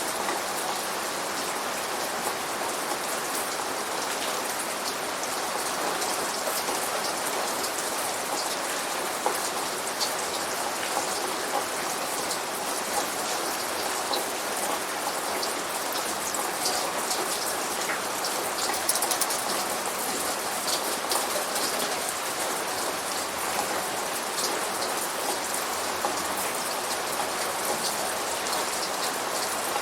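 Steady rain falling, with many individual drops ticking sharply on a nearby surface over an even hiss. No thunder.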